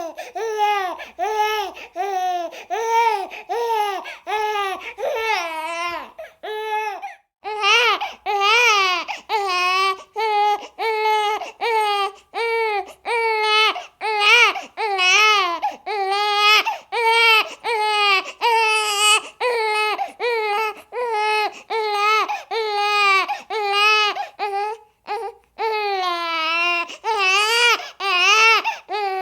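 A baby crying hard, in short pitched wails, about one to two a second, each rising then falling, with quick breaths between them and a brief pause twice.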